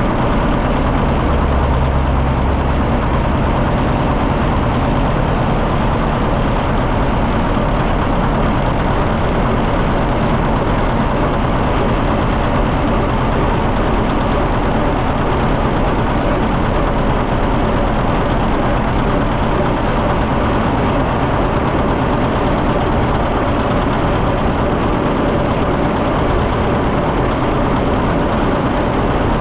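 John Deere 730 tractor's two-cylinder engine running steadily as the tractor drives, loud and even throughout with no change in speed.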